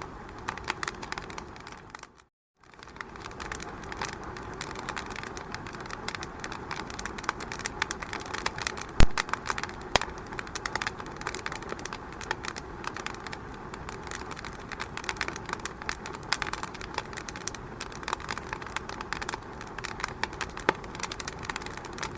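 Wood fire crackling in a fireplace: dense, irregular pops and snaps over a soft hiss. The sound cuts out for a moment about two seconds in, and one louder pop comes about nine seconds in.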